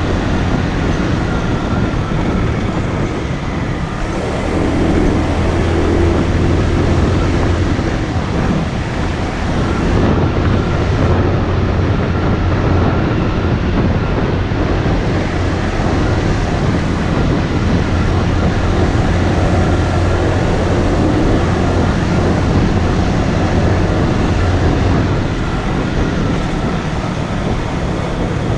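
Motorcycle engine running while riding, under a steady rush of wind and road noise. The engine hum swells a few seconds in and eases off again near the end.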